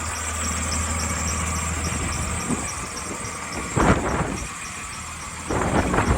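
Dodge Ram 3500's Cummins diesel idling with a steady low hum, with wind buffeting the microphone. A loud gust comes about four seconds in, and more wind follows near the end.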